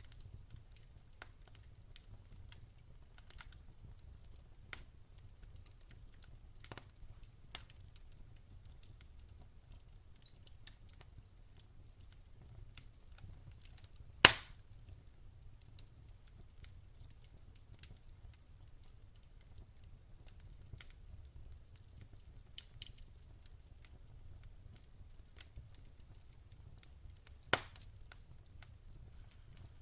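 Campfire crackling: scattered small snaps of burning wood over a low steady rumble, with two loud pops, one about halfway through and one near the end.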